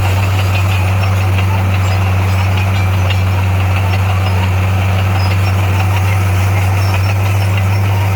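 Heavy diesel engine of construction machinery running steadily at an even speed, a constant low drone with no change in pitch.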